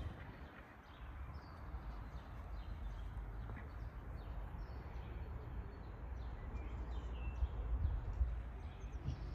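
Small birds chirping, many short scattered calls, over a low steady background rumble.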